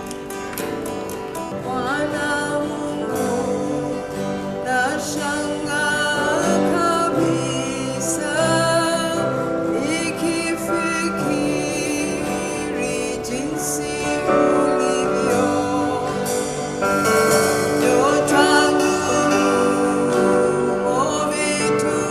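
Live gospel worship music: singing over guitar and keyboard accompaniment with a steady beat.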